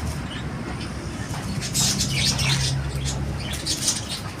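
Birds chirping in short bursts over a low steady hum, the chirps bunched together a couple of seconds in.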